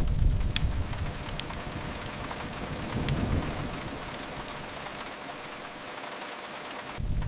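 Steady rain mixed with the sharp, scattered crackles and pops of a wood fire. A low rumble under the rain swells over the first seconds, rises again about three seconds in, then jumps back up abruptly near the end.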